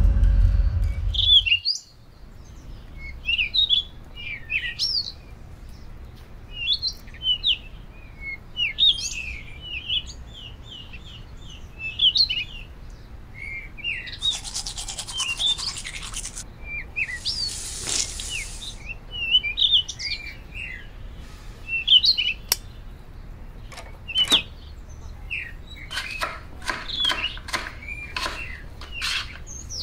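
Small birds chirping and tweeting throughout, after a music cue cuts off in the first two seconds. About halfway through come two scrubbing spells of a toothbrush, each about two seconds long. Near the end come a series of sharp knife taps on a cutting board.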